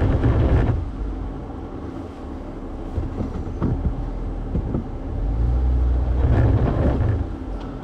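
Jeep engine pulling under throttle while crawling over flat rock, surging twice, at the start and again about five seconds in, with a few sharp knocks in between.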